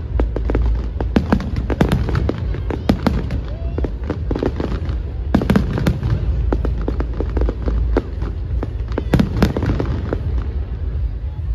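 Fireworks display: many sharp cracks and pops of bursting firework shells in quick succession, thickest in clusters about a second in, about five and a half seconds in and about nine seconds in, over a steady low rumble.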